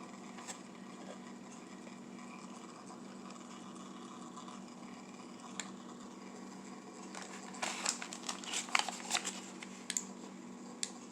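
Packaging of a diecast toy-car two-pack crinkling and clicking as it is handled and opened, in a short flurry of crackles about two-thirds of the way through, with a few single clicks before and after.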